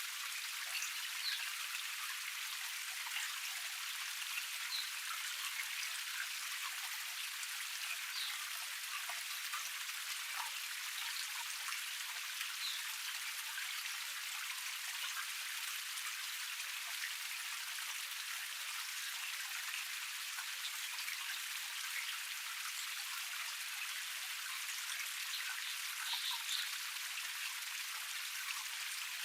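Small forest cascade: water splashing and trickling over rocks in a steady rush, full of small bright droplet splashes.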